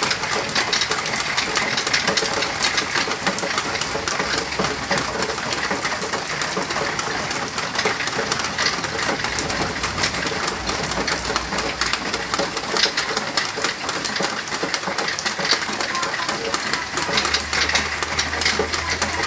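Rain falling steadily: an even hiss packed with countless small drop hits.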